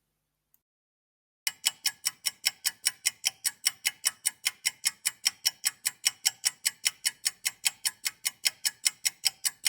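About a second and a half of silence, then a steady, fast clock-like ticking at about five or six ticks a second. It is a countdown timer sound effect marking the time to think of an answer.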